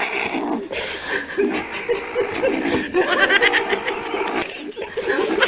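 A person laughing, breaking into quick high-pitched giggles about three seconds in.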